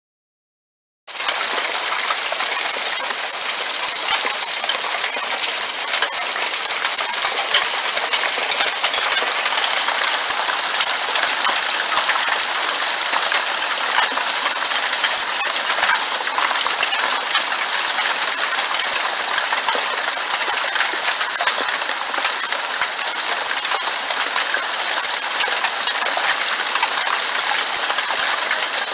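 Small hailstones falling and pelting a hard surface: a dense, steady patter of countless tiny clicks that starts suddenly about a second in.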